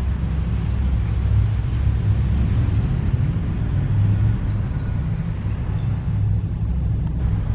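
A steady low rumble dominates. Over it a bird gives a few faint high chirps from about halfway through, then a quick trill of about eight notes near the end.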